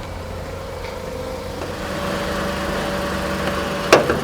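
2002 Honda Civic EX's 1.7-litre four-cylinder engine idling steadily, with a sharp click near the end.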